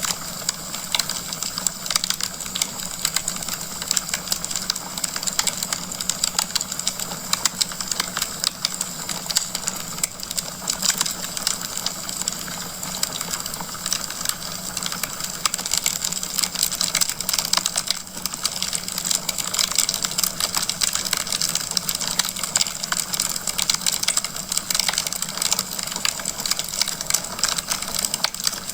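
Wood fire crackling in a fireplace: a steady, dense run of small irregular pops and snaps from the burning logs over a soft hiss.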